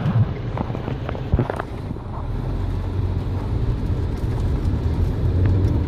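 Steady low rumble of a car's engine and tyres heard from inside the cabin while driving, with a few short knocks in the first couple of seconds.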